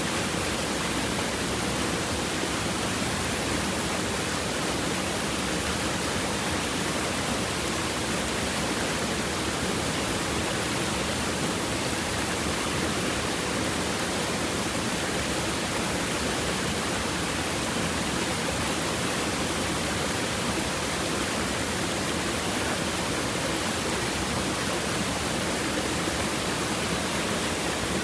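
Stream water running over rocks, a steady, even rushing with no changes.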